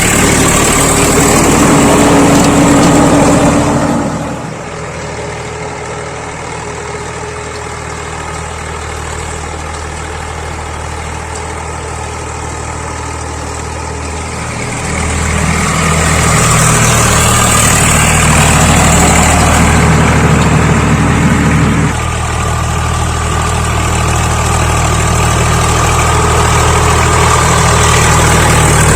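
Swaraj 855 FE tractor's three-cylinder diesel engine running steadily. It drops quieter about four seconds in, comes back up around the middle, and steps down suddenly a little after twenty seconds.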